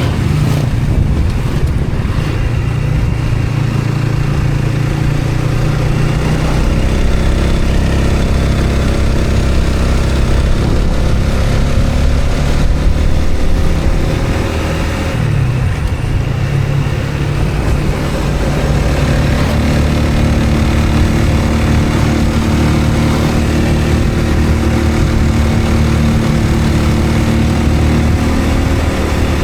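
Motor vehicle engine running on the move, with steady road and wind noise. The engine note changes pitch about halfway through, dropping and then settling again, as when the vehicle slows and picks up speed.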